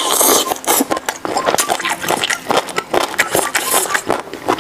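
Close-miked eating: a crisp bite at the start, then rapid, wet crunching and crackling as crunchy cold-dressed food (chicken feet, bamboo shoots, tripe in a lemon sauce) is chewed.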